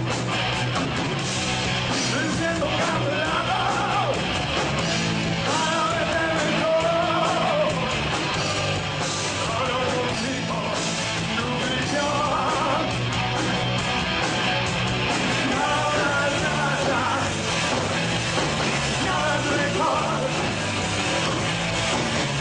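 Rock music with a shouted, yelled lead vocal over distorted guitars and a steady bass line.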